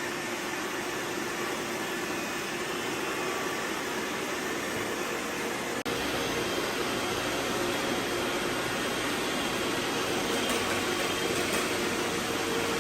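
Robot vacuum suction motors and brushes running with a steady whirring noise. The sound drops out for an instant about six seconds in and resumes with a little more low rumble.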